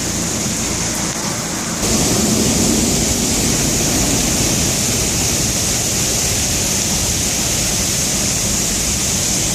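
Rainwater pouring down through the ceiling into a subway station: a steady rush of falling, splashing water that gets louder about two seconds in.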